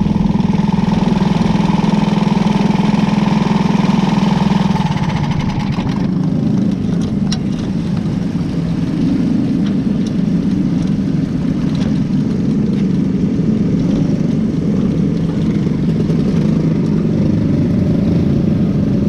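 Onboard sound of a cadet wing racing car's engine running steadily, then easing off about five seconds in and running lower and rougher.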